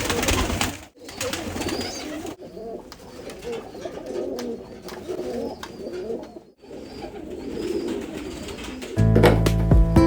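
Pigeons cooing, a wavering low murmur broken by a few abrupt cuts. Acoustic guitar music comes in near the end.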